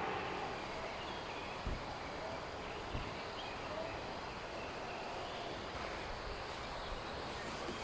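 Steady rain hiss, with a few faint bird chirps and two brief soft thumps in the first three seconds.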